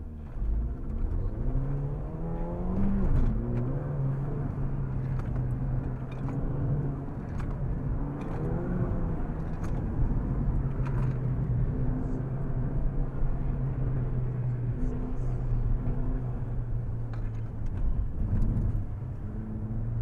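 Ford Fiesta ST's turbocharged four-cylinder engine heard from inside the cabin while driven hard through an autocross course. It revs up steeply in the first few seconds, then runs at high revs that rise and ease again and again, with scattered sharp clicks.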